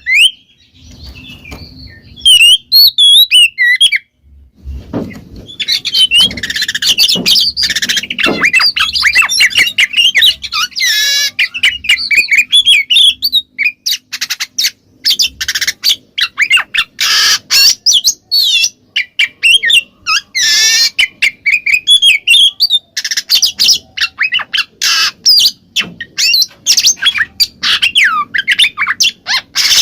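Oriental magpie-robin (kacer) singing a loud, free-flowing song of rapid, varied whistles, chirps and harsh squawking notes, with a brief pause about four seconds in.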